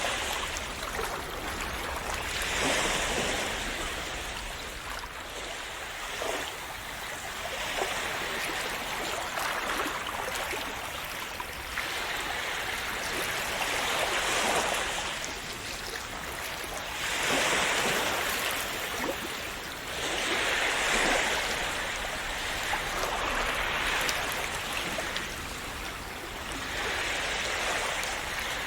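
Sea waves washing onto a shore, a steady hiss of surf that swells every few seconds as each wave breaks and runs up.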